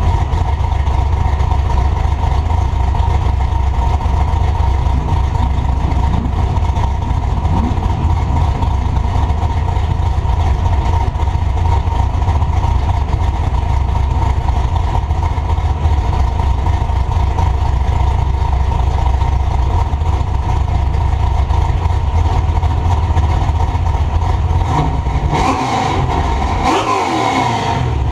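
Truck engine and exhaust heard from a camera mounted on the back of the truck: a steady, loud low rumble. Near the end the pitch briefly sweeps up and down.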